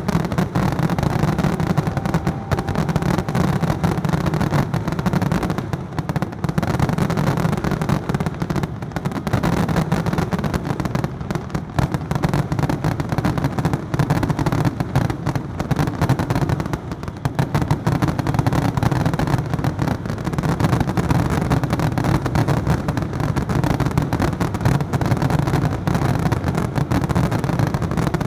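Dense, continuous fireworks barrage: shells launching and bursting in rapid succession with no break, merging into a steady booming rumble.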